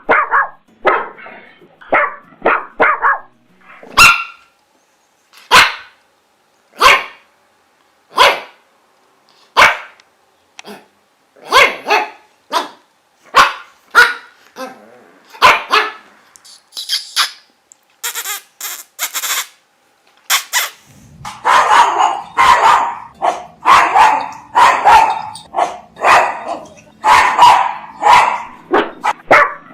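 Dogs barking: single barks spaced about a second and a half apart, then, about two-thirds of the way through, a faster, continuous run of barking.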